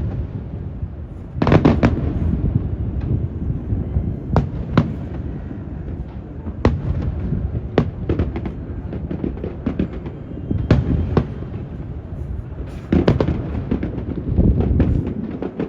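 Aerial fireworks shells bursting in a rapid series of sharp bangs. Dense clusters of bangs come about a second and a half in and again near the end. Wind rumbles steadily on the microphone underneath.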